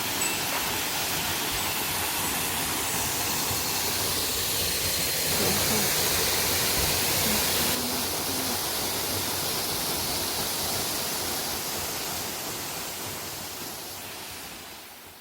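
Steady rushing of falling water from a waterfall, a dense even hiss that fades away over the last few seconds.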